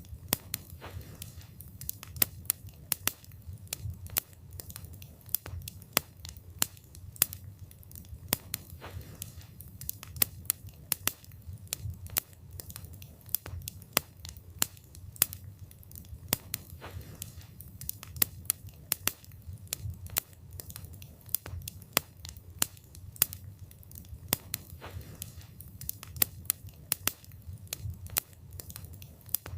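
Wood fire burning, with frequent sharp, irregular crackles and pops from the burning wood over a steady low rumble of the flames.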